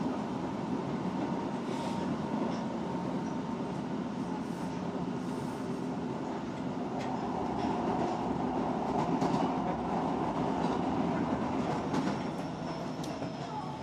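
Osaka Metro 66 series electric train running, heard from inside the car: a steady rumble of wheels on rail with scattered rail-joint clicks and a constant hum. It swells a little in the middle, and faint thin whining tones come in near the end.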